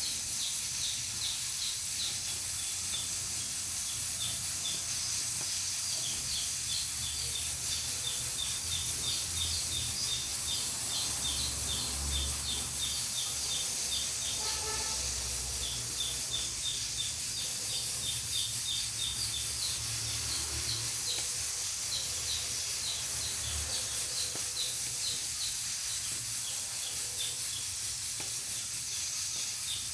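Pressure cooker on a wood-fired stove hissing steadily as steam escapes from its valve, with a low rumble underneath. A rapid run of short, high chirps, several a second, sounds through most of it and pauses briefly about halfway.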